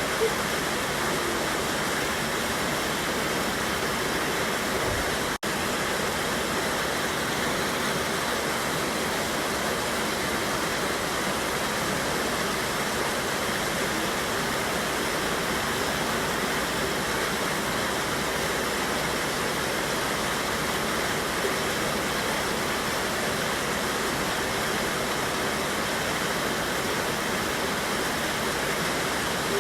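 River waterfall rushing steadily, an even, unbroken wash of water noise except for a split-second dropout about five seconds in.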